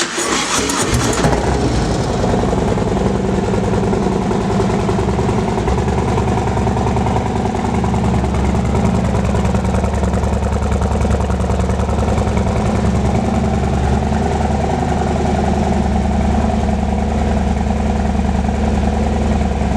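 Harley-Davidson Low Rider ST's Milwaukee-Eight 117 V-twin, breathing through a Thrashin 2-into-1 exhaust with a Thundermax tune, starts up with a brief burst and settles into a steady idle.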